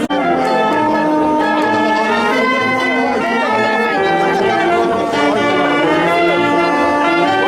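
Brass band playing a tune, with trumpets and trombones holding long notes over a steady low beat about twice a second.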